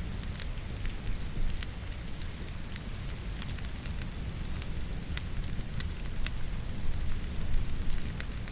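Logs burning in a fireplace, crackling with frequent sharp, irregular pops over a steady low rumble, mixed with the even hiss of falling rain.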